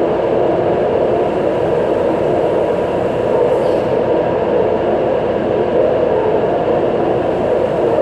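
Taipei Metro C381 subway train running between stations, heard from inside the car: a steady rumble of wheels and motors that holds level.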